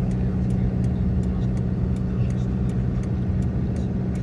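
Steady drone of a car's engine and tyres heard inside the cabin while driving, with a faint ticking about three times a second.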